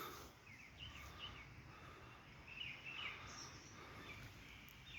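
Faint outdoor ambience with small birds chirping: short, quick chirps in a few clusters.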